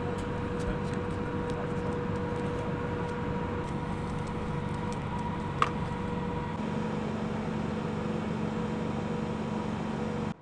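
Steady driving noise of a VW T5 van on the road: a low rumble with a faint steady hum. A few small clicks and one sharper click come about halfway, and the sound cuts off suddenly near the end.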